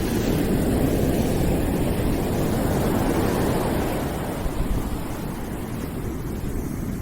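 Steady rushing noise, heavy in the low end with no distinct events, swelling slightly and easing a little a bit more than halfway through.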